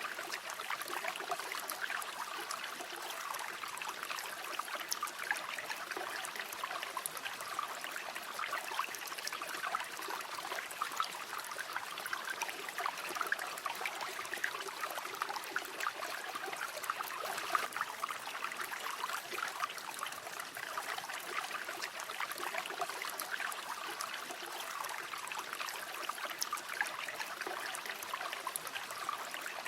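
River water running steadily over stones, a continuous babbling and trickling with many small splashes.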